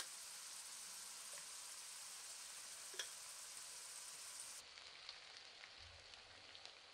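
Faint, steady sizzle of tomato and onion paste frying in oil in a kadai. It drops a little quieter past the middle, and a few light ticks near the end come as a spatula starts stirring.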